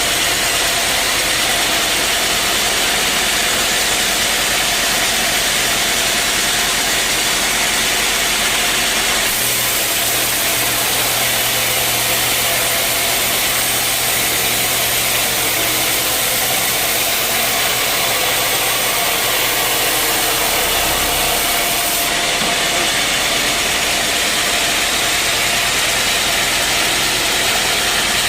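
Sawmill machinery running steadily with a loud, even mechanical noise. Its tone changes abruptly about nine seconds in and again about twenty-two seconds in.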